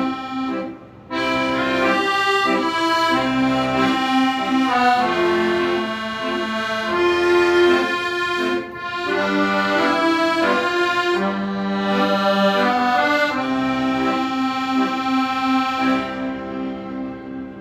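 Accordion playing a melody over sustained chords, with a brief break about a second in; the sound fades away near the end.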